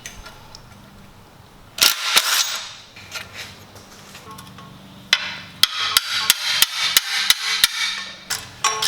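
Hand tools working on a dirt bike's engine mounts during engine removal: a loud metal clatter about two seconds in, then a run of sharp metallic knocks, about three a second, from just past the middle.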